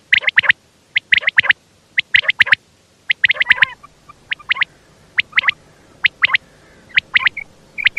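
Common quail calling: quick, sharp notes in groups of three or four, the groups repeating about once a second.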